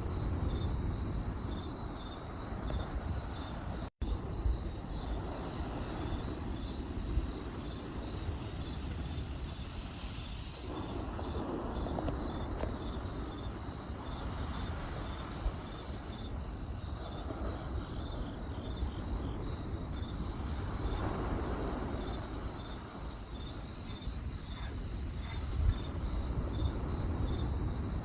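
Crickets chirping in a fast, even pulsing trill, over a campfire's low rushing burn with occasional sharp crackles and pops. The sound cuts out for an instant about four seconds in.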